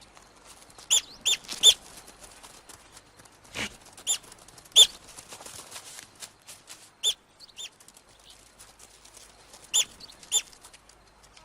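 North American river otters chirping: about ten short, high-pitched calls scattered irregularly, some in quick runs of two or three.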